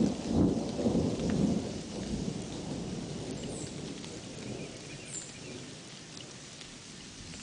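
A thunder rumble, loudest at the start and dying away over several seconds, over steady rainfall. Two brief high chirps come in the middle.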